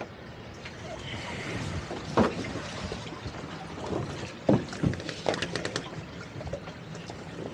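Boat motor running at low speed amid water and wind noise, with several sharp knocks.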